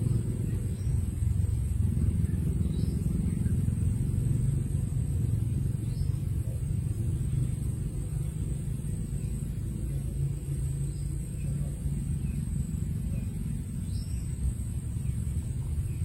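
A steady low rumble, with a faint thin high tone above it.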